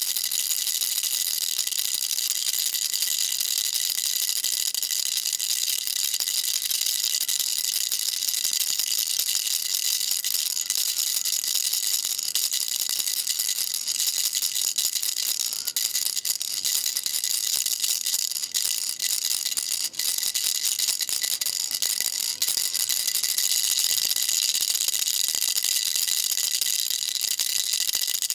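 Baby rattle shaken continuously, a dense high-pitched rattling with a few brief breaks in the middle.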